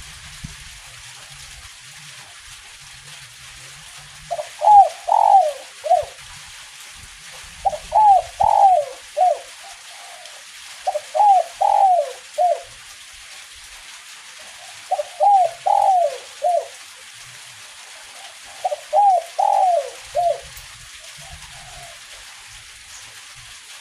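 Spotted dove (derkuku) giving its 'kuk 1' song: five cooing phrases of three or four notes each, the first about four seconds in, then one every three to four seconds. A steady hiss of light drizzle runs underneath.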